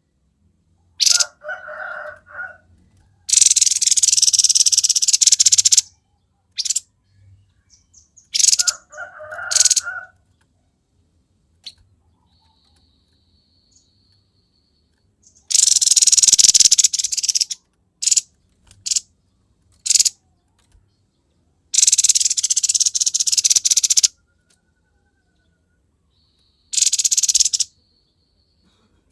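Grey-headed babbler (tepus kepala abu) calling energetically: four loud, harsh hissing rattles, most lasting two to three seconds, with shorter chattering calls between them and a faint thin whistle.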